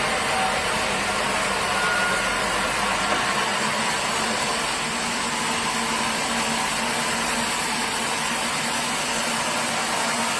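Sawmill machinery running steadily: a continuous drone with an even hiss over it and no breaks.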